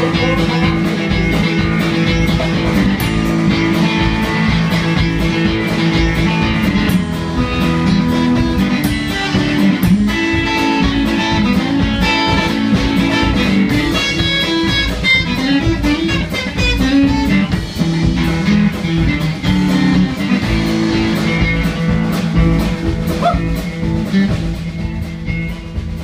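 Live blues-rock band playing an instrumental break between sung verses: an electric guitar leads over drums.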